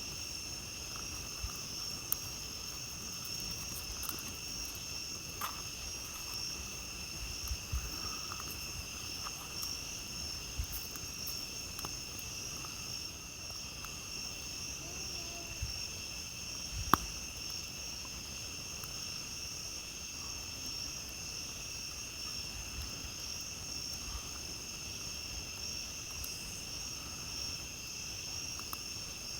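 A steady chorus of night insects trilling at several high pitches, with scattered crackles and pops from a campfire; the sharpest pop comes a little past the middle.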